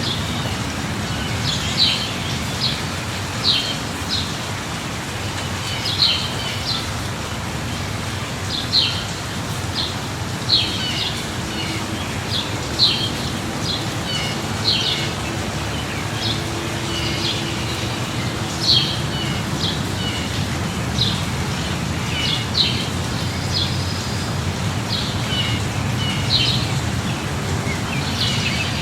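Steady light rain hissing, with a low rumble underneath, while a small bird chirps over it: short, sharp, high chirps every second or two.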